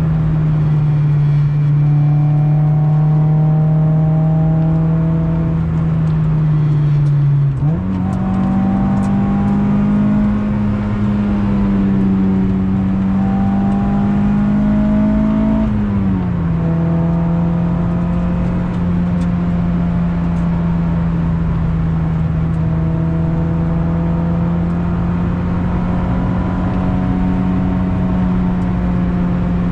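Acura Integra GS-R's B18C1 VTEC four-cylinder running hard under load through a Yonaka aftermarket exhaust. The engine note sags slowly, jumps sharply higher about eight seconds in, holds and climbs a little, then falls back about sixteen seconds in and runs steady.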